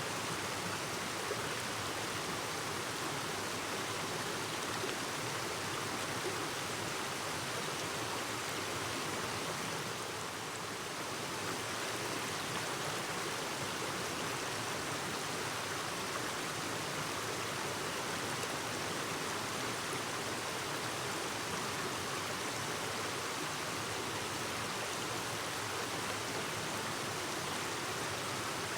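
Clear mountain stream babbling steadily over rocks, the rushing water dipping slightly about ten seconds in.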